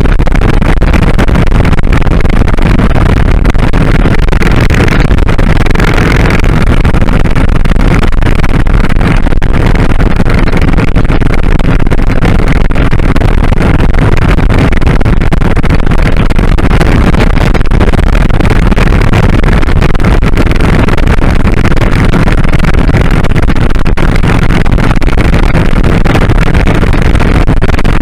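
Loud, steady wind rush over the microphone mixed with the running 2001 Kawasaki Drifter 1500 motorcycle's V-twin engine, cruising at a steady speed. A brief swell of hiss comes about five seconds in.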